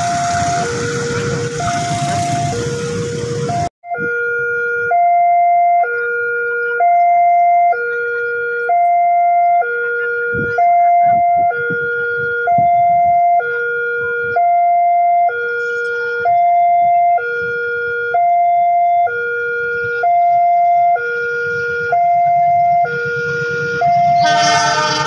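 A noisy rumble cuts off suddenly about four seconds in. Then a two-tone hi-lo electronic siren sounds, a high and a low note alternating about once a second and repeating steadily.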